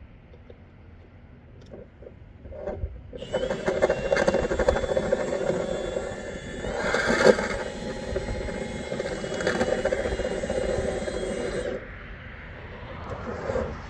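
Electric motor of dryer vent cleaning equipment running steadily for about eight seconds, starting and stopping abruptly.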